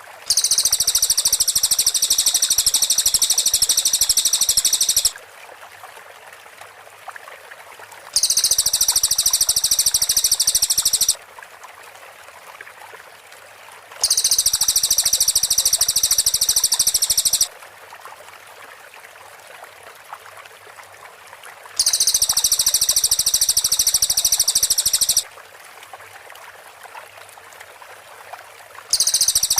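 Cililin singing its clear 'tembakan rapat' song: bursts of very high, tightly packed rapid-fire notes, each lasting three to four seconds, five times with pauses of about three seconds. A faint steady hiss fills the pauses.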